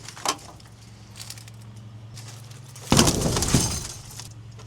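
Packing crate around a mini excavator being broken open: a sharp crack near the start, then a loud crash and clatter about three seconds in, over a low steady hum.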